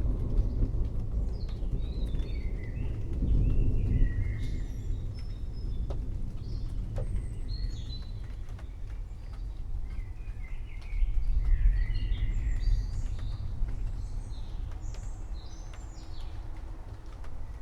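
Low rolling thunder rumbling and swelling twice, with small birds chirping and twittering over it.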